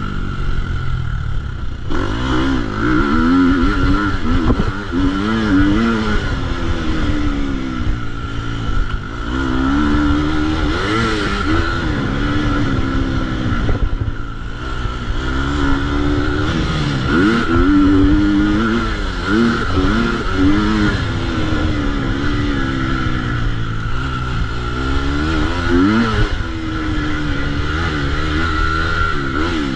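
2022 KTM 250 SX-F motocross bike's four-stroke single-cylinder engine being ridden hard, its revs rising and falling again and again every second or two as the throttle opens and closes.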